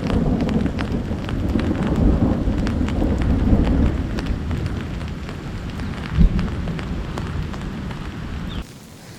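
Heavy rain falling, with many individual drop hits over a deep low rumble and a louder thump about six seconds in. The sound cuts off suddenly near the end, leaving much quieter rain.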